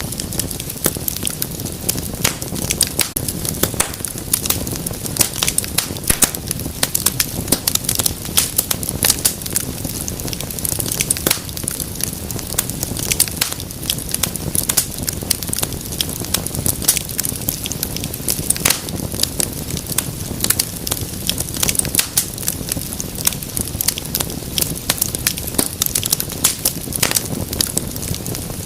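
Wood fire crackling: many quick, irregular pops and snaps over a low, steady rush of burning flames.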